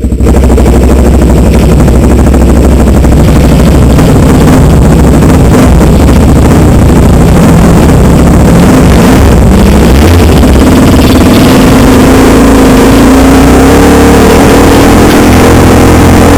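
Dirt bike engine running very loud while being ridden, its pitch rising and falling with the throttle.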